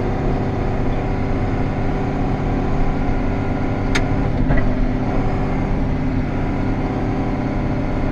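John Deere 7800 tractor's diesel engine running steadily, heard from inside the cab, with one sharp click about four seconds in.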